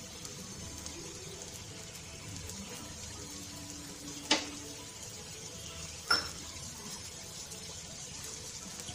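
Onion dosa frying on a hot iron tawa, the batter and freshly added oil giving a steady sizzle. Two sharp clicks stand out above it, about four and six seconds in.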